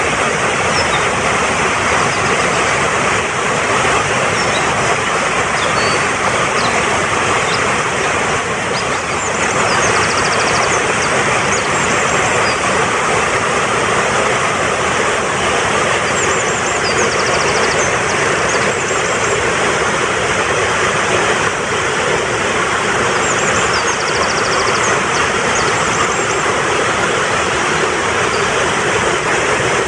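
Rushing mountain stream flowing strongly, a steady, even rush of water. Short, high bird chirps come in little groups every several seconds over it.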